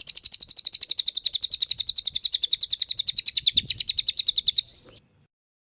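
Songbird singing a rapid, machine-gun trill of high, downward-slurred notes, about eleven a second, evenly spaced, for some four and a half seconds before stopping abruptly, with a couple of faint notes after.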